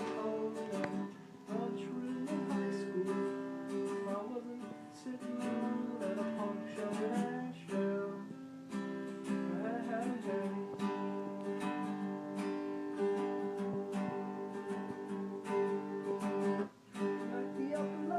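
Acoustic guitar being strummed, with chords ringing on, briefly breaking off near the end.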